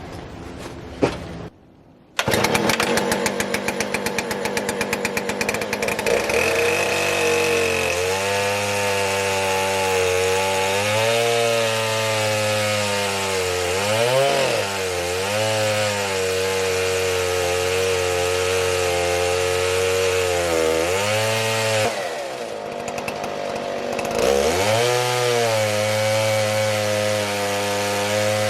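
Knockoff Stihl two-stroke chainsaw on a chainsaw mill, running at full throttle through a log after a few clicks near the start. Its pitch dips and recovers several times as the bar loads up in the cut.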